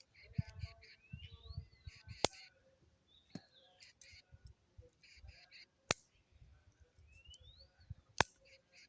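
Birds calling, with repeated high chirps and a couple of rising-then-falling calls. Four loud sharp clicks cut through about two, three and a half, six and eight seconds in, over a low rumble.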